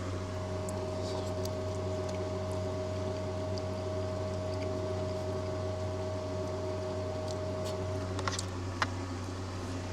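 A steady low mechanical hum with a fainter steady whine above it; the whine drops out about eight seconds in. A few soft clicks come near the end.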